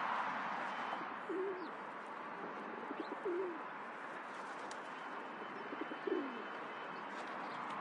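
Pigeons cooing: three short, low, wavering coos about a second, three seconds and six seconds in, over a steady background hiss, with a few faint chirps from small birds.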